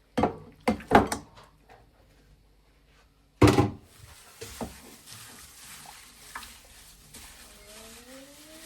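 Household knocks and thuds in a small room: three in quick succession at the start and a louder one about three seconds in, as of a door or cupboard shutting. A steady hiss follows, and near the end a pair of rising tones comes in.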